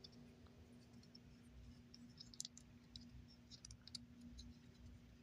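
Near silence with a faint steady hum, broken by a few faint clicks of a 3D-printed plastic action-figure arm being moved at its joints.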